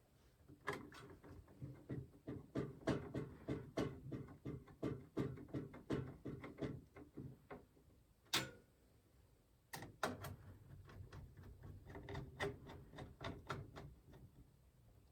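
Quick, irregular clicks and light knocks of hands working on a PC case and its parts, several a second, with a short lull and then one sharper click about eight seconds in.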